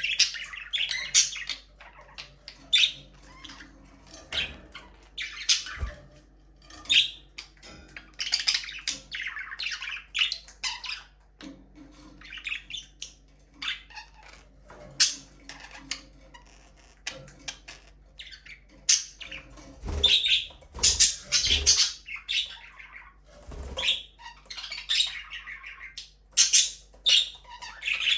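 Several budgerigars chirping and chattering in short, high-pitched calls, one after another with brief gaps, with a few soft low thumps among them.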